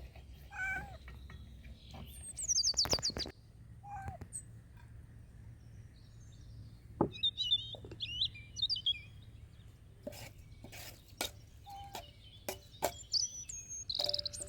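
Small birds chirping, with short high twitters and a quick falling run of notes, and a series of sharp clicks or taps in the second half.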